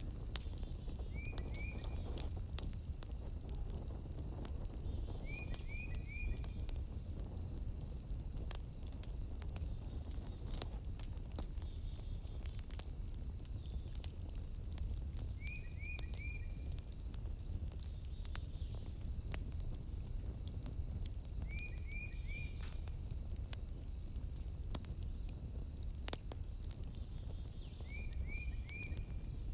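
Wood fire in a fireplace crackling, with scattered sharp pops, over a steady high insect chirring. A short call of three quick chirps repeats about five times, every few seconds.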